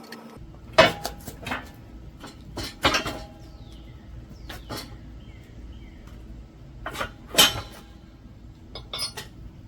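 Steel tools and rifle parts clanking and clinking against each other in a series of separate sharp strikes, the loudest about a second in and about seven and a half seconds in.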